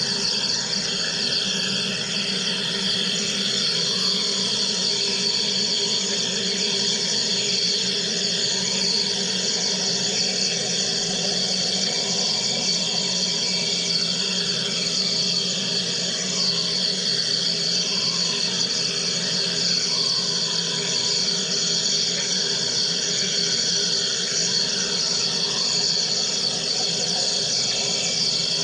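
Wire EDM machine running steadily: a constant hum of several steady tones over a high hiss.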